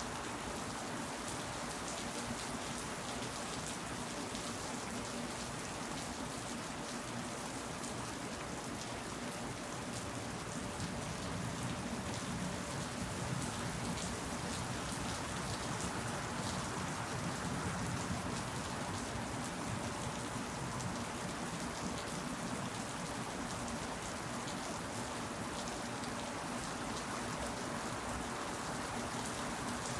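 Steady rainfall, an even hiss of many drops pattering on surfaces, with no breaks or changes in intensity.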